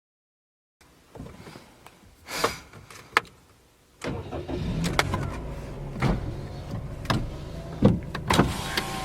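Toyota car engine starting about four seconds in, then running steadily with several sharp knocks over it; before that only a few faint clicks.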